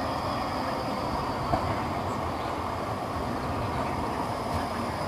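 Electric tram running on street track: a steady rail rumble with a faint high whine, and a single sharp click about a second and a half in.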